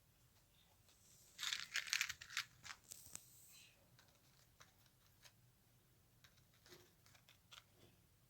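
A parrot tearing and crinkling at a toy with its beak: a burst of crackly tearing about a second and a half in, lasting about two seconds, then scattered small clicks.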